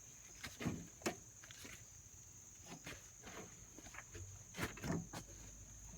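Faint scattered thuds and scrapes of dirt being dumped and shifted by hand, about half a dozen over several seconds, over a steady high-pitched hiss.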